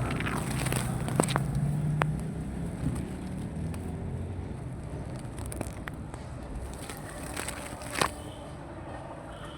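Low steady hum of a distant motor that fades away over the first few seconds, with scattered sharp clicks and a louder snap about eight seconds in.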